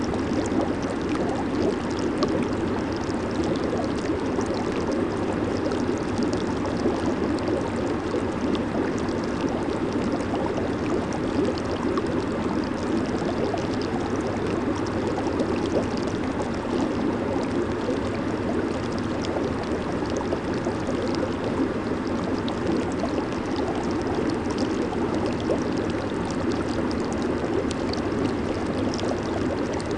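Jacuzzi bubbling and churning: steady rushing, gurgling water from the jets and air bubbles.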